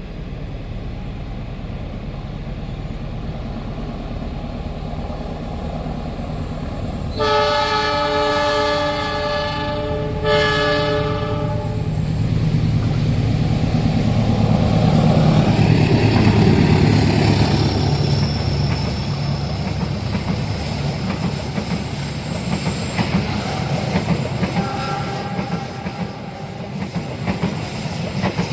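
A train approaching and passing at speed. It sounds two long blasts on a multi-tone horn about a quarter of the way in, then a loud rumble and the clickety-clack of wheels on the rails as it goes by.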